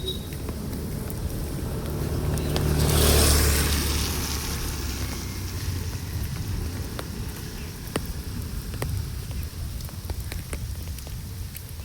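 Steady rain with scattered sharp drips. A motor vehicle passes, swelling to its loudest about three seconds in and then fading.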